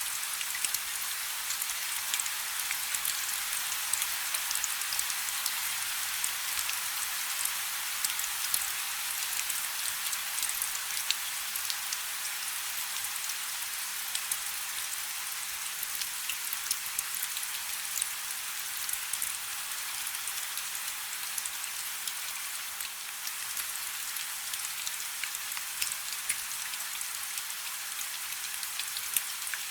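Steady rain falling on a river: a dense, even hiss of drops, with many single drops ticking sharply through it.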